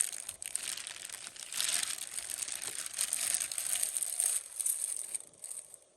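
Plastic wrapping crinkling and rustling as it is handled and pulled off, irregular and busy, fading out about five seconds in.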